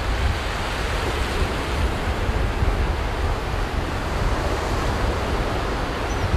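Sea waves washing onto a beach in a continuous surf wash, with a fluctuating low rumble underneath, typical of wind on the microphone.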